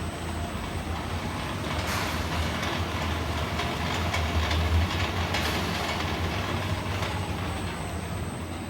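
PVC flexible duct forming machine with steel-clip reinforcement running, a steady low hum with irregular clacks and rattles over it.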